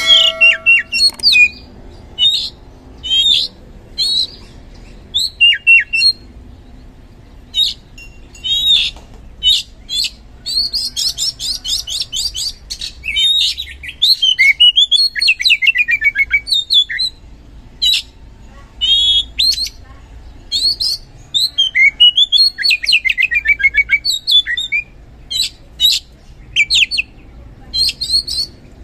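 Oriental magpie-robin (kacer) singing loudly in a varied string of phrases: sharp whistled notes, falling slurs and fast trills, separated by brief pauses.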